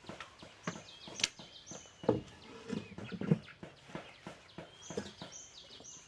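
Birds chirping in short high calls, over a run of irregular clicks and knocks, the loudest knocks about two and three seconds in.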